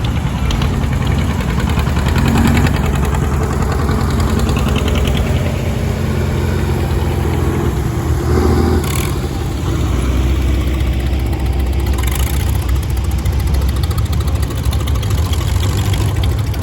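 Farm tractor engine running steadily at a low, even speed, its note shifting slightly a couple of times.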